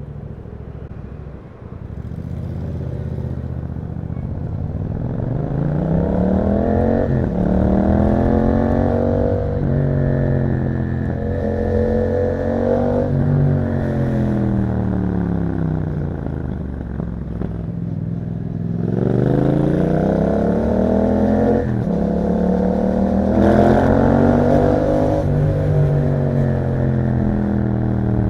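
2021 Yamaha MT-07's parallel-twin engine through an Akrapovic exhaust, accelerating hard through the gears. The pitch climbs and drops sharply at each upshift, about six and ten seconds in, then falls away as the throttle closes. A little before twenty seconds it pulls hard again, with another shift a couple of seconds later.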